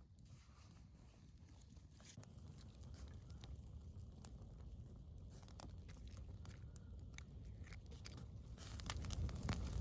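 Campfire crackling with scattered small pops over a low rumble, growing louder near the end.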